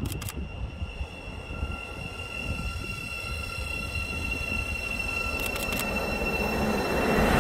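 An approaching train heard first as a faint, steady, high-pitched ringing from the track over a low rumble. It grows steadily louder as the train nears.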